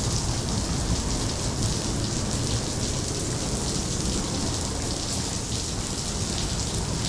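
Steady downpour of artificial rain in a rain room, water streaming down and splashing on the floor without a break.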